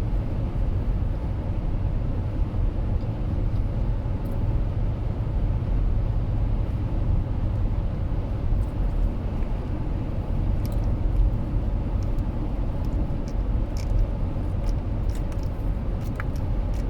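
Steady low road rumble of a moving car heard from inside the cabin, with a few faint light clicks in the second half.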